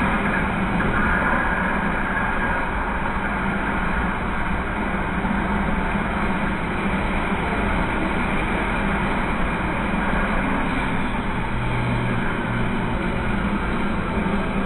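Studio tour tram moving along, a steady engine rumble and running noise with a faint low hum.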